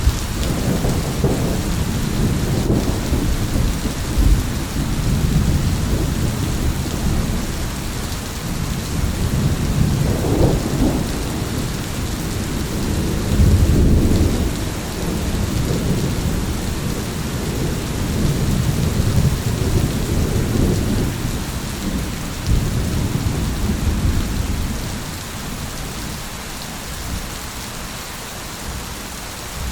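Thunderstorm: steady rain falling with thunder rumbling, the rumble swelling to its loudest around the middle and dying down near the end.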